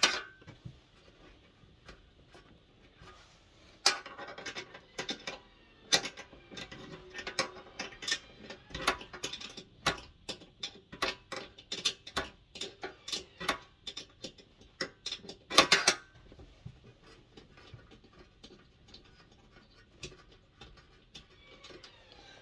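Socket ratchet clicking in runs as bolts are undone on a diesel heater, with louder metal knocks about 4 and 16 seconds in. The clicking thins to faint ticks over the last few seconds.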